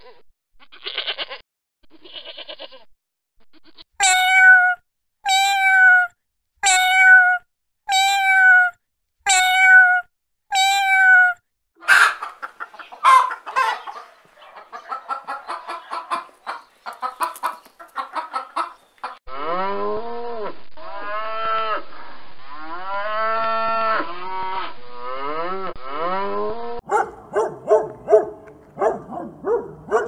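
A goat bleating, faintly at first, then six loud bleats about a second apart, each falling in pitch. Chickens follow, clucking and calling in quick, busy calls and longer rising-and-falling calls. Dogs start barking near the end.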